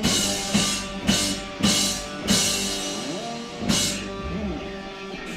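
Live rock band playing a song's ending: a run of drum-kit hits with cymbal crashes about every half second, a last crash near four seconds in, and instrument notes sliding up and down as it winds down.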